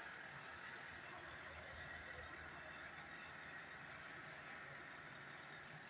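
Faint, steady low hum of a vehicle engine running at a distance, under even outdoor background noise.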